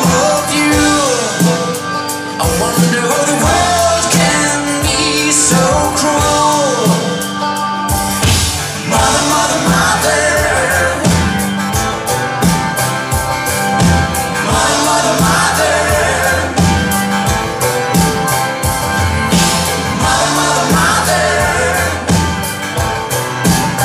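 Live band playing a rock song with a lead vocal. For the first several seconds the singing is over lighter backing, then the full band comes in with bass and drums about eight seconds in.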